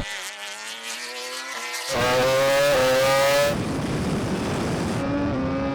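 Drag-racing vehicles accelerating hard at full throttle: a high engine note climbing slowly in pitch, in a few cut-together stretches, loudest from about two to three and a half seconds in.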